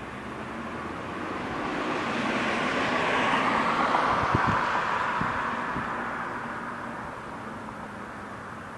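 A single road vehicle passing by, growing louder to a peak about four seconds in, then fading away.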